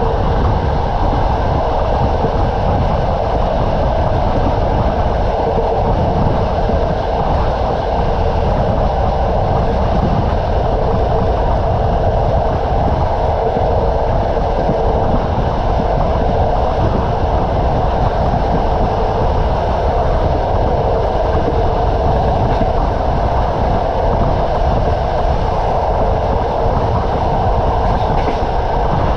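Train wheels running on the rails at speed: a steady rumble and rattle with no let-up.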